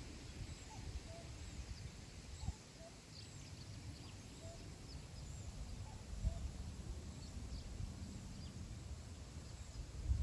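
Wind blowing across open grassland, rumbling low on the microphone in gusts, with small birds giving short, high chirps in the distance throughout.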